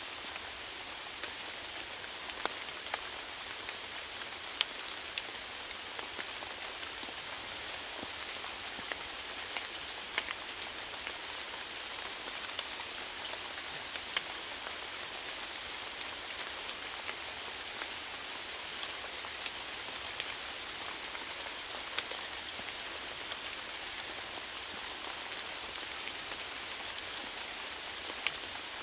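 Steady rain falling, an even hiss with scattered louder drops ticking sharply on a surface.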